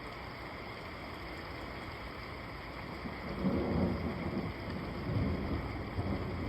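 Steady rain hiss, joined about three seconds in by a low, rolling rumble of thunder that swells and wavers to the end.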